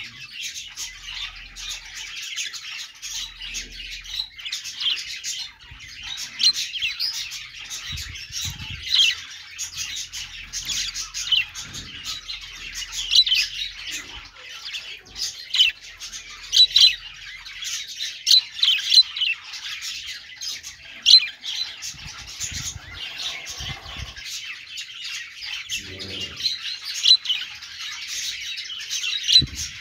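A group of budgerigars chattering without a break: a steady warble, with frequent sharp chirps and squawks standing out above it.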